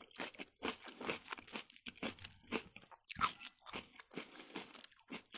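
A person chewing a mouthful of Ossetian cheese pie, about four chews a second with a short pause near the middle.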